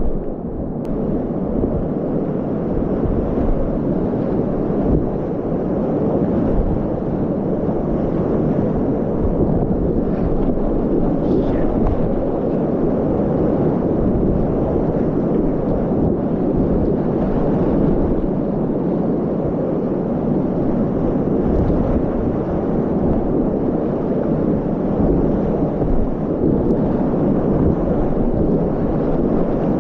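Steady, loud rush of Class 4 whitewater rapids, dense and low-pitched, without a break.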